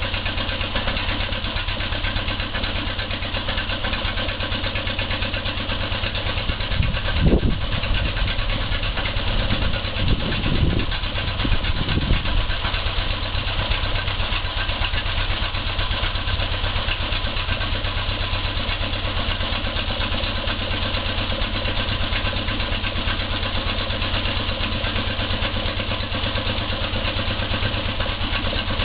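1935 Kelvin E2 marine petrol/paraffin engine running steadily with an even beat, with a few brief louder surges about seven to twelve seconds in.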